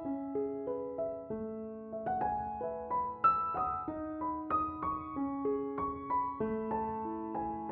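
Background music: a gentle piano melody with several notes a second, each note ringing on.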